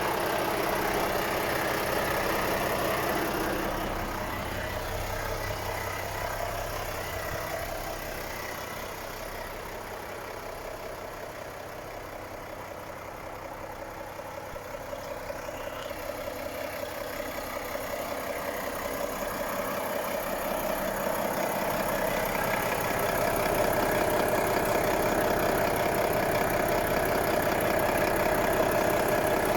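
Volvo FH 460's 13-litre six-cylinder diesel idling steadily, growing fainter through the middle and louder again toward the end.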